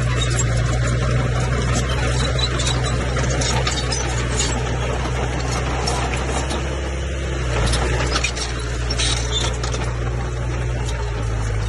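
Old Komatsu bulldozer's diesel engine running steadily with a low drone, with scattered high clicks and squeaks from the working machine over it.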